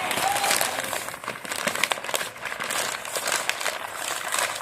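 Packaging crinkling and rustling in irregular crackles as a box of supplies is unpacked by hand.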